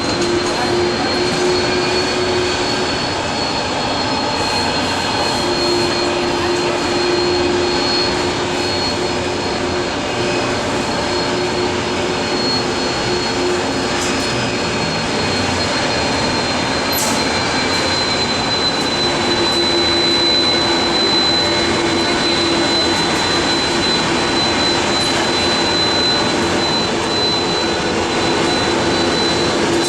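Jet airliner engines running steadily, a loud even rush with a high, steady whine that dips slightly in pitch about halfway through.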